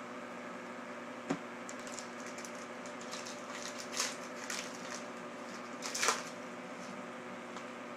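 Yu-Gi-Oh booster packs and cards being handled: a sharp click a little over a second in, then short crinkling rustles of pack wrapper around four and six seconds in, over a steady background hum.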